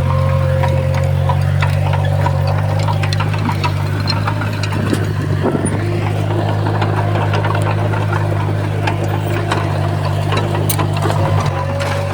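Heavy diesel engine of earthmoving machinery running steadily, with many short sharp clicks scattered through.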